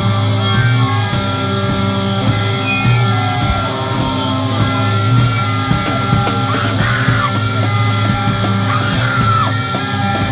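A screamo band playing live: loud distorted electric guitars and bass over drums, with cymbal hits that fall about twice a second at first and come faster about six seconds in.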